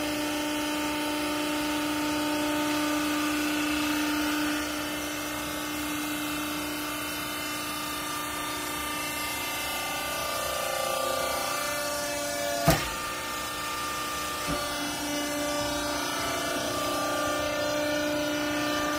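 Scrap-cloth baler's hydraulic pump and motor running with a steady hum and whine, its pitch shifting about four seconds in and again about eleven seconds in. A single sharp bang comes about two thirds of the way through, with a smaller knock just after.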